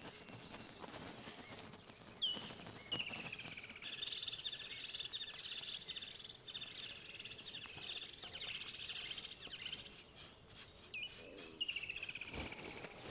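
Songbirds chirping: short falling whistled notes about two seconds in and again near the end, with a fast continuous trill in between.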